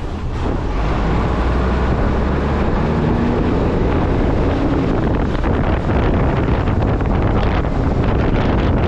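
Heavy wind buffeting a camera microphone strapped to the front of a moving truck, with the truck's low, steady rumble underneath.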